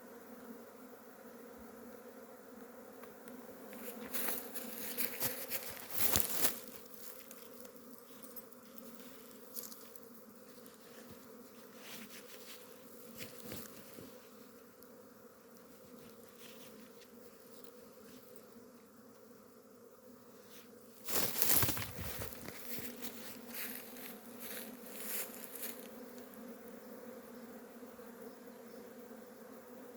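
Swarm of Korean native honeybees (Asian honeybees) buzzing as the colony swarms, a steady low hum. It is broken by two brief louder bursts of rushing noise, about four to six seconds in and about twenty-one seconds in.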